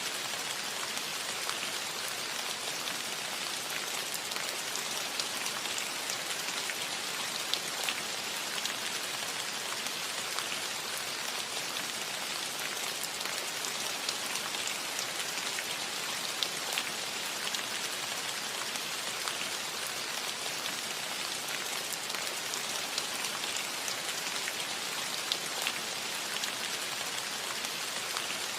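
Steady rain on a cottage roof, a dense even patter with many small individual drop ticks.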